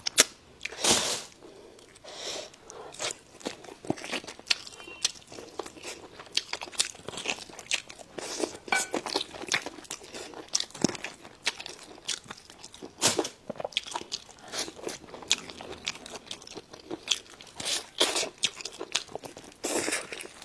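Close-miked chewing and biting of food, with irregular crisp crunches throughout and a few louder crunches about a second in, midway and near the end.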